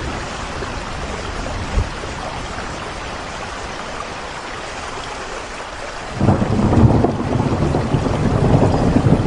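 Steady rain falling, an even hiss. About six seconds in, a low rumble of thunder sets in suddenly and keeps rolling under the rain.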